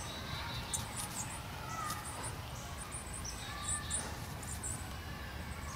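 Small birds chirping faintly: short, very high chirps scattered throughout, with a few softer, lower whistled notes, over a steady low outdoor background.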